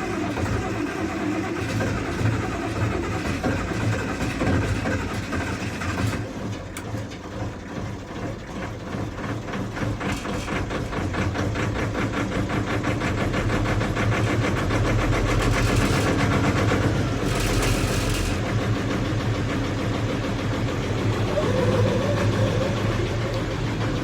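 Massey Ferguson 1135 tractor's six-cylinder diesel being cold-started: it cranks for about six seconds, then catches and runs with a regular firing beat, picking up and getting louder a few seconds later before settling to a steady run.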